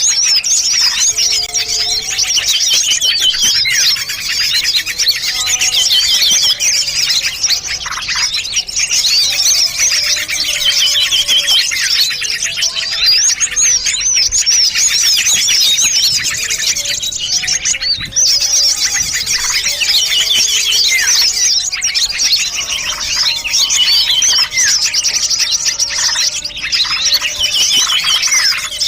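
A dense mix of many small songbirds chirping and twittering over one another without pause: a layered bird-lure recording that combines the calls of several small species.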